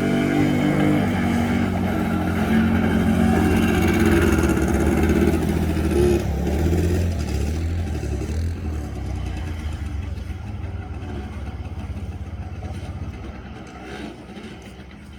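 Quad bike engine revving hard, rising in pitch near the start, then fading away steadily over the second half.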